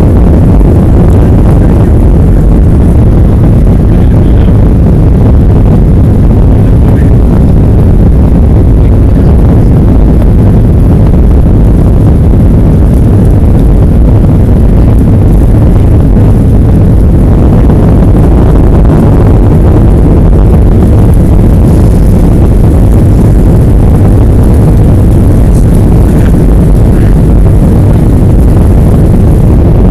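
Jet airliner's engines and rushing airflow heard from inside the cabin during takeoff: a very loud, steady low rumble.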